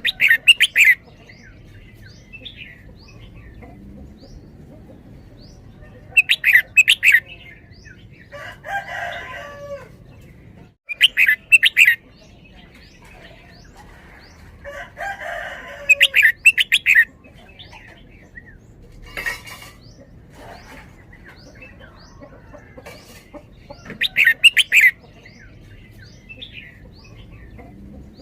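Red-whiskered bulbul singing: five loud, quick phrases of rapid notes, each about a second long and spaced roughly five seconds apart, with softer, lower calls and small chirps in between.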